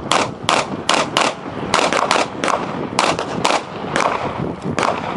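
Pistol fired rapidly in an IPSC Production-division stage run: about a dozen shots at uneven spacing, several in quick pairs.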